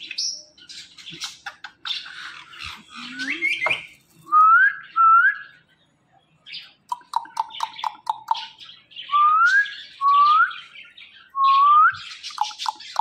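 Pet parrot whistling and squawking: harsh scratchy chirps first, then short rising whistles, a quick run of about eight short even notes, and three more rising whistles.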